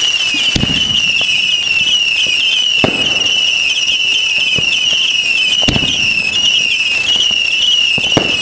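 Aerial fireworks shells bursting during a display finale: four loud booms a few seconds apart, each with a short rumbling tail. A continuous high pulsing tone runs underneath.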